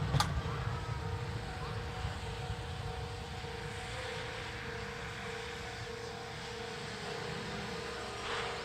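Steam-hauled train (C12 tank locomotive) moving off and away, its low rumble slowly fading, with a sharp click just after the start, a steady pulsing tone throughout and a short hiss near the end.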